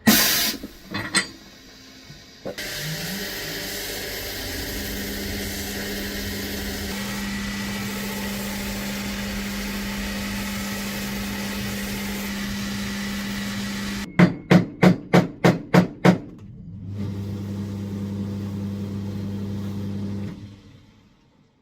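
An electric motor running steadily with a low hum, stopping for a quick run of about eight knocks, roughly four a second, and then starting again before winding down. A sharp hit and a click come at the very start.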